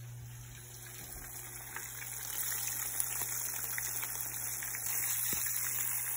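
Battered fish fillets frying in shallow hot canola oil in a pan: a steady sizzling hiss with scattered crackles and pops, growing louder over the first two seconds.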